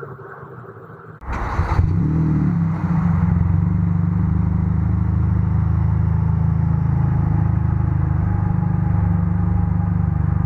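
A vehicle engine running steadily close by, a loud low rumble that comes in suddenly about a second in.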